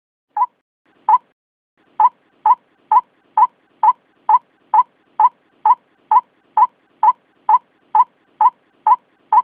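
White-breasted waterhen calling: short, clipped notes, two spaced ones at first, then a very even run of about two a second.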